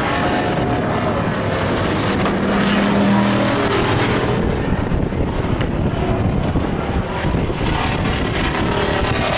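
Stock race trucks' engines running on the speedway, a louder one passing about three seconds in.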